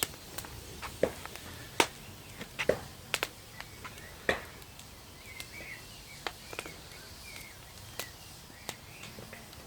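Wood fire crackling: irregular sharp cracks and pops, thicker in the first half, with a few faint bird chirps in the background.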